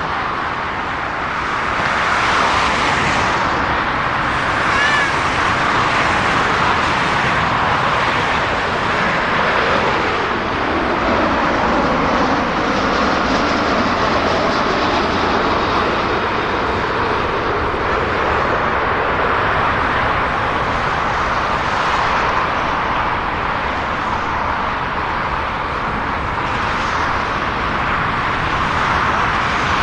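Jet airliner engines running steadily, a loud rushing roar with a slow dip and rise in pitch around the middle.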